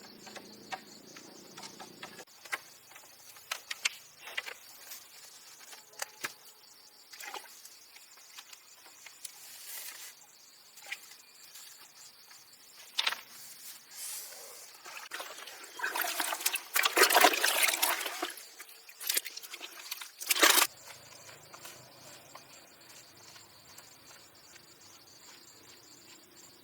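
Water pouring and splashing in a loud rush from about sixteen to eighteen seconds in, with a shorter splash near twenty seconds, among scattered knocks and clicks. Crickets chirp steadily behind it.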